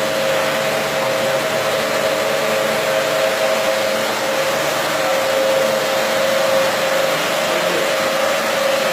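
Carpet-washing machine running steadily, a loud, even hiss with a constant mid-pitched whine.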